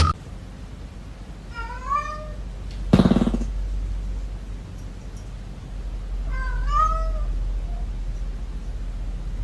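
Domestic cat meowing twice, each a single call that rises and then falls in pitch, with a short loud noise about three seconds in.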